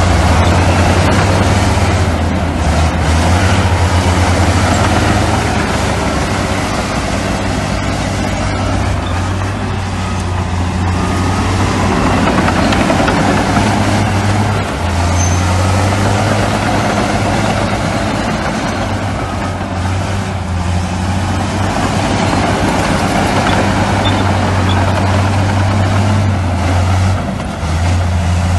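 Heavy diesel construction machinery running at a building site: a steady low engine drone with a broad rumble over it. The drone eases off for several seconds about a third of the way in, then comes back.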